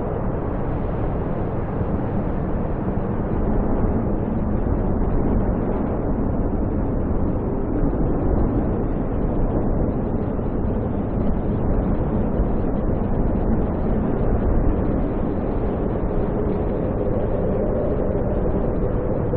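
Snowstorm wind blowing steadily, a dense low noise with small swells in strength and no distinct events.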